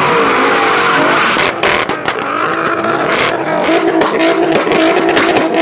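Loud car engines revving, their pitch rising and falling over and over.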